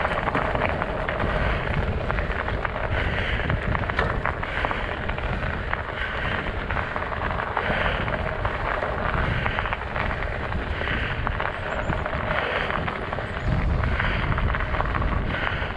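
Studded fat-bike tires rolling over ice and crusted snow, a steady crackling crunch with wind rumbling on the microphone.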